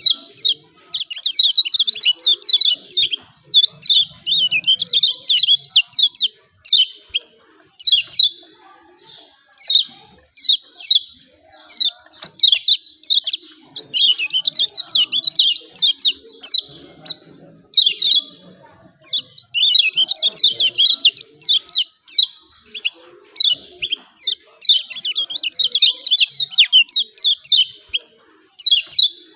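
Kecial kuning (Lombok white-eye, pleci) giving its rapid, chattering "ciak ciak" calls in bouts of one to two seconds with short pauses. This is the excited call used as a lure (pancingan) to provoke a reluctant bird into singing.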